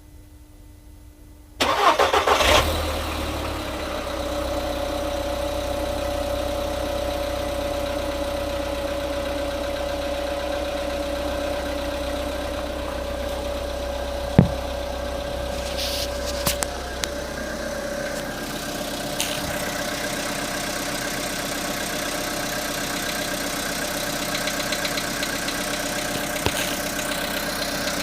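Volkswagen Polo sedan's petrol engine cold-started at about +1 °C: a short crank catches within a second, briefly runs fast, then settles into a steady cold idle. One sharp click sounds about halfway through.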